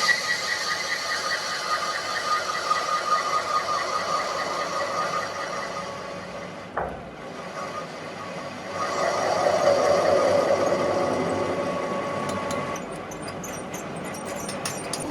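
Factory machinery running with a steady high whine. There is a sharp click about seven seconds in, then a louder, lower whine that builds and fades, and light ticking near the end.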